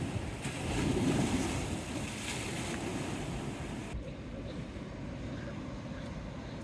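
Rough sea washing and breaking along the seafront, with wind on the microphone; the surf swells louder about a second in. About four seconds in the high hiss drops away suddenly and a lower rush remains.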